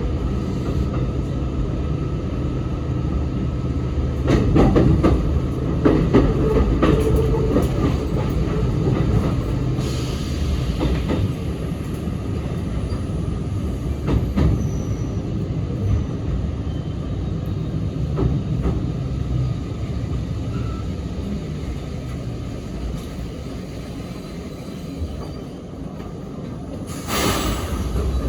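Sanyo Electric Railway 3050-series local train running, heard from inside the car: a steady rumble of wheels and motors with clicks from the rail joints. The noise eases off in the second half, and there is a brief loud rush of noise near the end.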